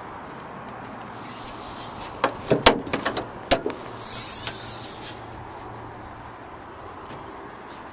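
Pickup truck hood being unlatched and raised: a quick run of sharp metallic clicks and knocks, then a short hiss.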